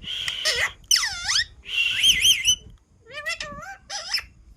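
A pet parrot calling repeatedly in loud, high-pitched whistle-like calls that dip in pitch and rise again, with a quick wavering warble near the middle and a run of short chirps after it.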